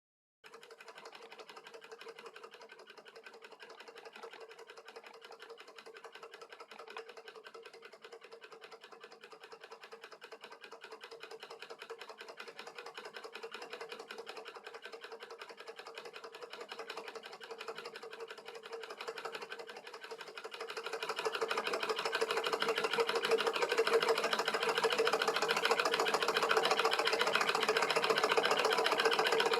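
Homemade beta-type Stirling engine running, its small mechanism making a fast, even clatter over a steady hum. The sound cuts in about half a second in and grows clearly louder about twenty seconds in.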